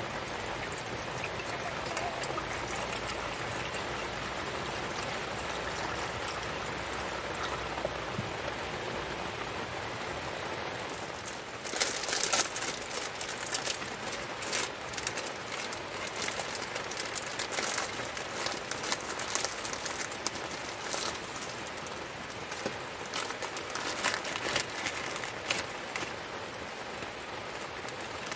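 Steady rain. About twelve seconds in it changes abruptly to a close, crackling patter of sharp drop hits.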